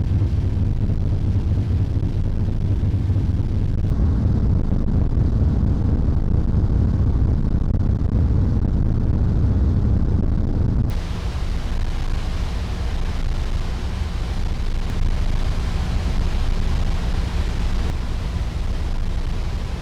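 Steady low rumble of a car ferry's engines, mixed with wind on the microphone. About eleven seconds in it changes suddenly to a hissier rush of wind and water with less rumble.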